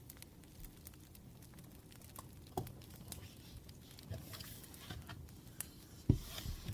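Desk sounds of someone studying: scattered faint ticks, a soft knock, and near the end a louder thump followed by a brief papery rustle.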